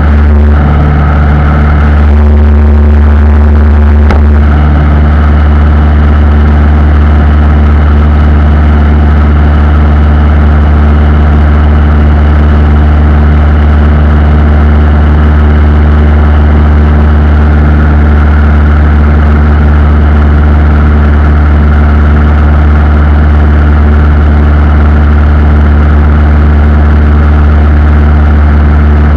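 Aircraft engines running with a loud, steady hum, holding one pitch, with a brief change in tone a couple of seconds in.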